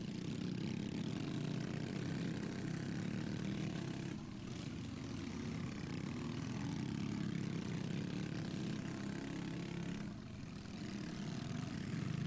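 Small pit bike engines running hard in a race, with brief dips in level about four and ten seconds in.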